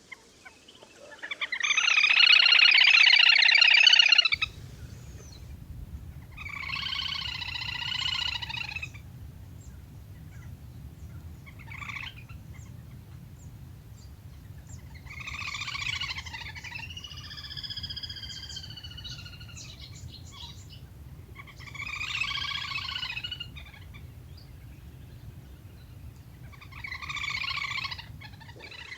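Lesser whistling duck calls: bouts of shrill whistled notes a few seconds apart, the first bout the loudest. A low steady hum runs beneath from about four seconds in.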